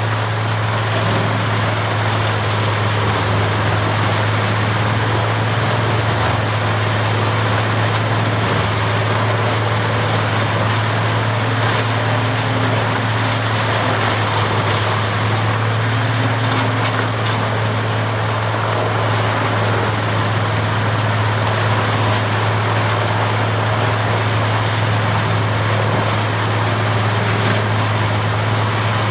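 Peterson 2710D horizontal wood grinder running steadily at work, with a constant low hum under a dense noisy rush, and a faint high whine that drifts up and down.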